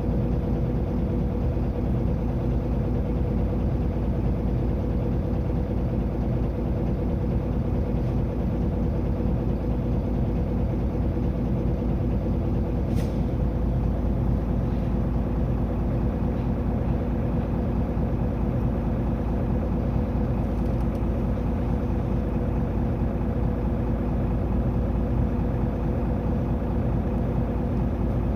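Inside the cabin of a Mitsubishi Fuso LKG-MP37FKF city bus under way: its six-cylinder diesel engine running at a steady pitch under road noise. One sharp click about halfway through.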